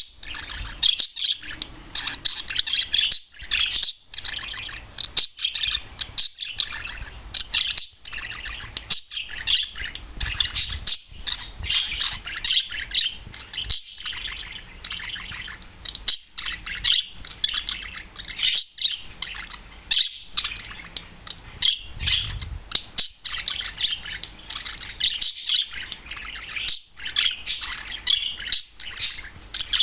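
Adult male budgerigar warbling: a loud, continuous chatter of rapid chirps and whistles with short breaks.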